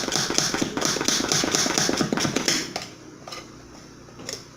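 Rapid stirring of thick batter in a bowl, the utensil knocking and scraping quickly against the bowl. It stops a little under three seconds in, leaving only a low background.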